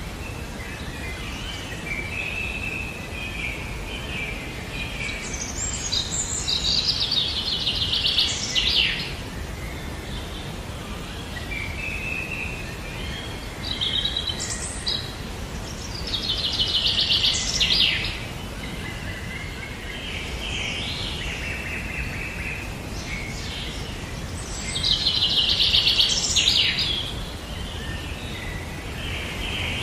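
Birds singing: a loud, rapid trilling song comes three times, roughly nine seconds apart, with softer chirps in between, over steady background noise.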